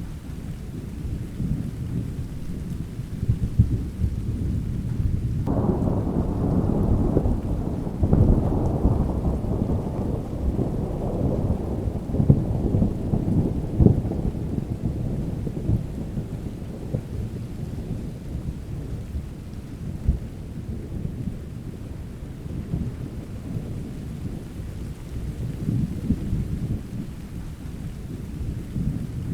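Steady rain with a continuous low rumble of thunder. About five seconds in, a louder thunderclap breaks suddenly and rolls away slowly over the following ten seconds or so.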